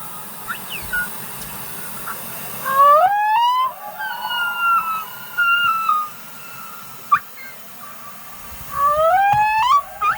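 Humpback whale song heard underwater: two long rising whoops, about three seconds in and again near the end, with descending, whistle-like moans and a few short chirps between them.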